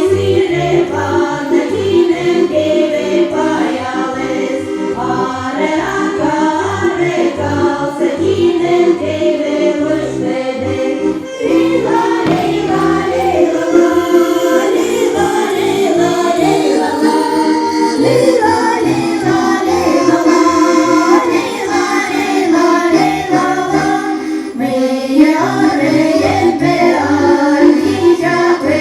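Sámi folk ensemble singing in chorus over instrumental accompaniment with a steady bass beat.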